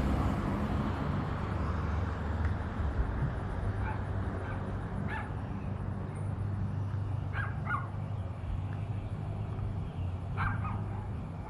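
Dog barking a few times in the distance, some barks in pairs, over a steady low outdoor rumble.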